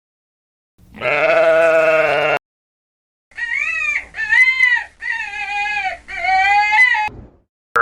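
Spliced animal calls: one long call starting about a second in that cuts off sharply, then after a short gap four separate calls in a row, each rising and falling in pitch.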